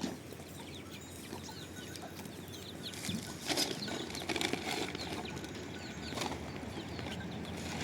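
Birds chirping, with many short high calls overlapping throughout, and a few sharp knocks about halfway through.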